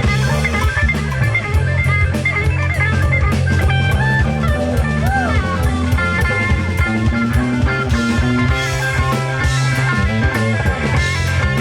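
Live band playing an instrumental passage: electric guitar, bass guitar and drum kit in a steady funk-rock groove.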